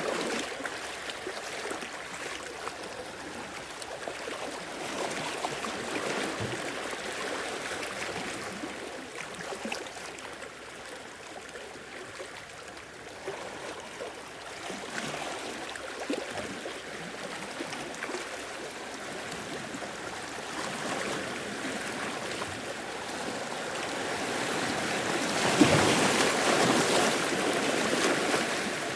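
Small sea waves washing and lapping on a shore, with a soft continuous wash that swells and eases over several seconds and grows loudest near the end as a bigger wave comes in.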